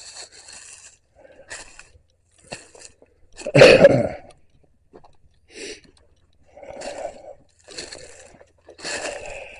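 Footsteps crunching through dead leaves and fallen twigs, about one step a second, with one louder crunch a little before the middle.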